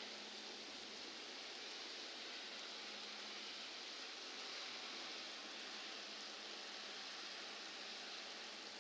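Steady, faint hiss of falling rain, even throughout with no distinct drops, knocks or thunder.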